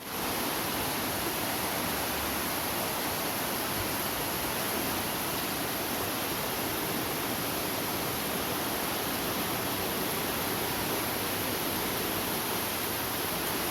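Steady rush of flowing floodwater, an even noise with no breaks.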